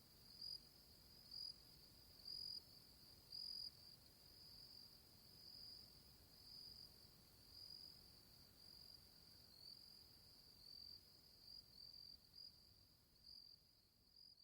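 Faint insects chirping: a steady high trill with louder chirps about once a second, growing softer toward the end.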